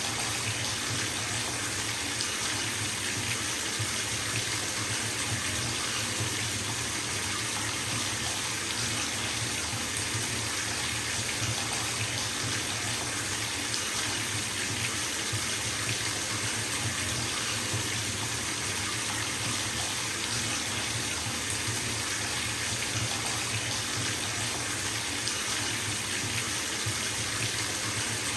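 Bathtub filling from a running tap: water splashing steadily into the tub.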